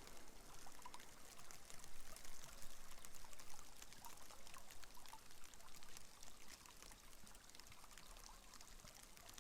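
Rain pattering on a window glass, a faint steady hiss full of small drop ticks, slowly getting quieter over the last few seconds.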